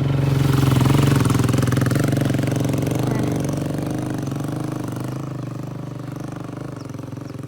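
Motorbike engine passing close by, noisy, loudest about a second in and then gradually fading as it moves away.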